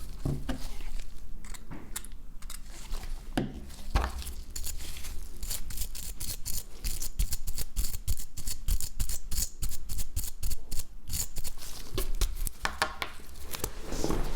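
Small hand tools clicking, tapping and scraping against a smartphone's parts during disassembly: rapid, irregular clicks that thicken in the middle, over a low steady hum.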